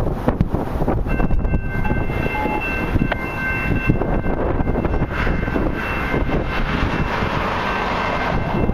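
Diesel locomotive's multi-chime air horn sounding a long steady chord, starting about a second in, under heavy wind noise on the microphone.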